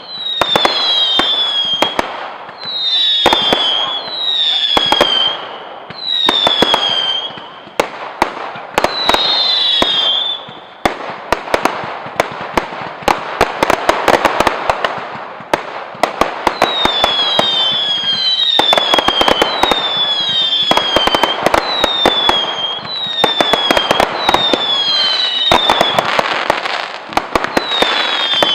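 Fireworks display: many sharp cracks and bangs with a run of short whistling fireworks, each whistle dropping slightly in pitch, then a dense stretch of crackling in the middle before more whistles near the end.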